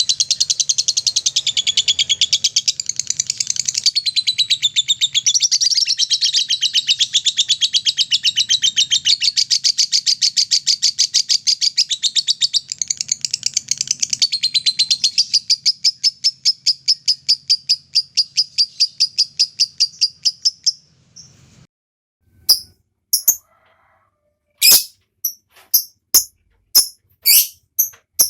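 Lovebird's ngekek: a long, rapid chattering trill of high chirps that thins out and stops about 21 seconds in. A few short, sharp single chirps follow.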